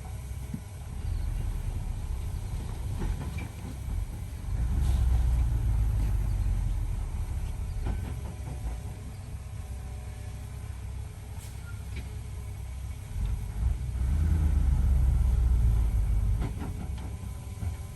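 Heavy diesel earthmoving machinery running, its low engine rumble swelling louder twice, about five seconds in and again near the end, with a few scattered knocks.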